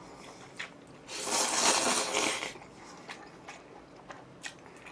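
Eating noises from jjajang ramyeon noodles: a hissing slurp of about a second and a half, starting about a second in, then scattered small clicks of chewing.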